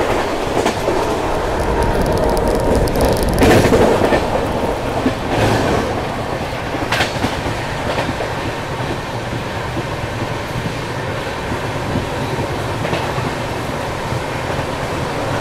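Double-decker express train running at speed, heard from on board: a steady rumble and rush of wheels on rail with irregular sharp clacks of wheels over rail joints, loudest about three to four seconds in.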